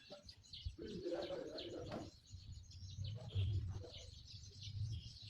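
Birds chirping, with a dove cooing.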